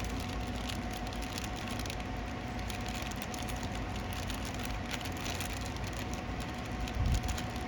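Steady workshop background hum with scattered light clicks and taps as small metal engine parts, rocker pedestal shims, are handled, and a low thump about seven seconds in.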